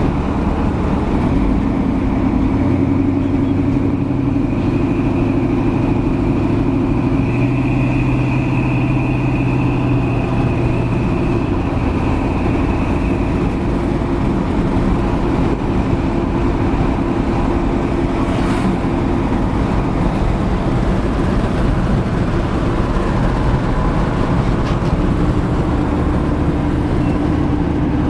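1972 Chevy C10 pickup with a fuel-injected 1996 LT1 V8 and Flowmaster exhaust, driving along: a steady engine and exhaust drone over road noise. The engine note shifts a few times as the speed changes.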